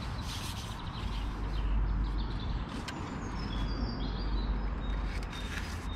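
Small birds chirping and singing over a steady low rumble, with brief rustles near the start and near the end as a fishing pole is handled.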